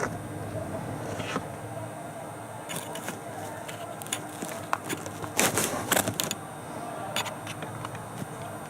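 Scattered clicks and rustles of handling noise on the camera's microphone over a steady low background hum, with a brief cluster of louder clatter about five and a half seconds in.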